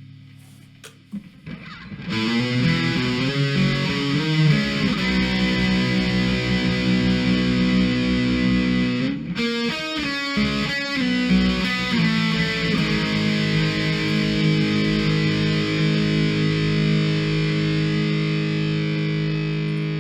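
Distorted electric guitar music: after a couple of quiet seconds, heavy sustained chords come in, with a brief break and some quick chord changes about halfway through.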